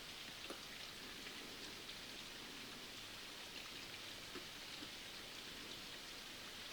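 Steady rain falling, an even hiss with scattered drop ticks and a few faint soft knocks.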